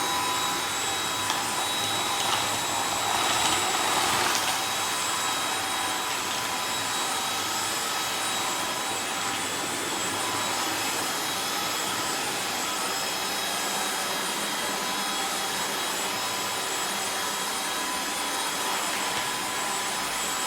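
Tineco cordless wet-dry vacuum mop running steadily with a high whine while it sucks up a wet and dry mess from a hard floor, with a louder, rougher rush of noise about two to four seconds in.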